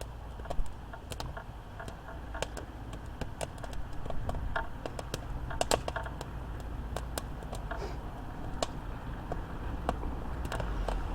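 Campfire crackling: burning wood gives irregular sharp pops and snaps, several a second, over a low steady rumble.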